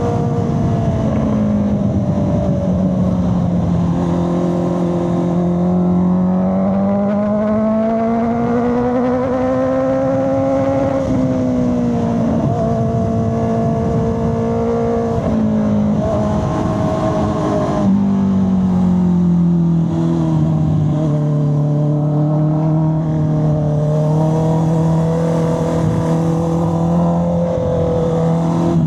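Honda CB650R's 649 cc inline-four engine and exhaust under way, the engine note rising and falling as the throttle is opened and rolled off through the curves. A few sudden steps in pitch mark gear changes.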